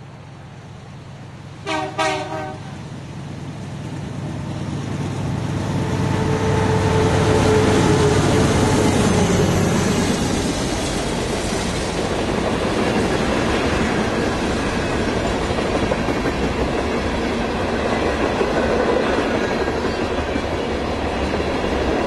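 Diesel freight train passing: a short air-horn blast about two seconds in, then the locomotive drawing near and going by with its engine note falling, followed by the steady rumble and clatter of covered hopper cars rolling past.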